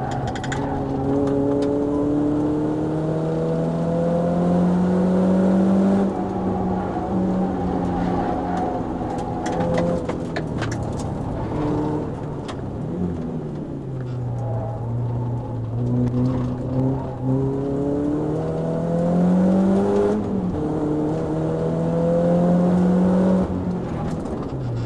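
Renault Clio RS four-cylinder engine heard from inside the cabin under hard track driving: the revs climb for several seconds at a time and then fall away, over and over, as the car is driven through the gears and corners.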